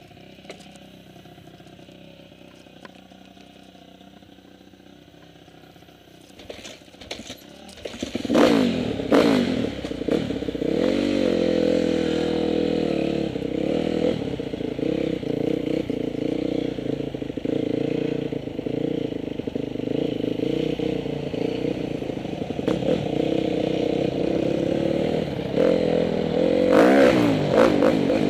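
2010 Honda CRF250R dirt bike's 250 cc four-stroke single-cylinder engine, faint for the first few seconds. About eight seconds in it revs up and runs hard as the bike is ridden, then revs up again near the end.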